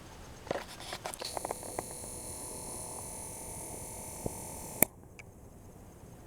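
Camera handling noise: a few small clicks and taps, then a steady high thin whine from the camera that cuts off with one sharp click about five seconds in.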